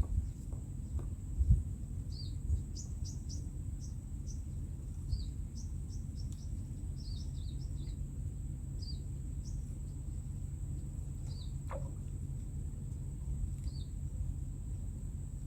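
Small birds chirping in short, high, downward-sliding notes, scattered every second or so, over a steady high insect whine and a constant low rumble. A few low thumps come in the first couple of seconds.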